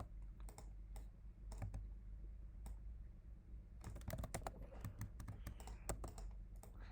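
Computer keyboard keys tapped at irregular intervals, a few scattered strokes and then a quicker run of keystrokes about four seconds in, over a steady low hum.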